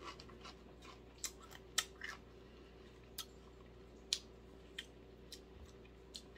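A person chewing a crisp tortilla chip, giving faint, irregular crunches that come a little more often in the first couple of seconds.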